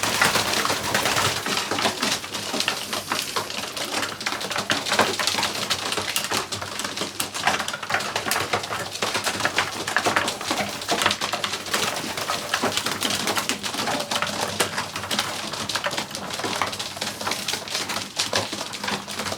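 A loft full of young racing pigeons: cooing and rustling, with a dense run of quick taps and clicks from the birds.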